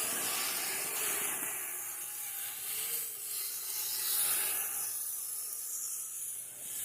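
Kyosho Blizzard RC snowcat's electric motor and tracks churning through snow, a scraping hiss that swells and eases a few times.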